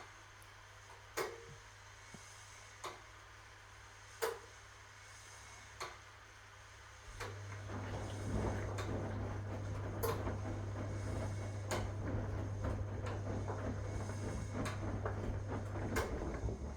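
1961 AEG Lavamat Noris washing machine mid-program: a low hum with sharp clicks about every second and a half. About seven seconds in, the drum motor starts turning and a louder hum sets in with the churning of the wash load in the drum.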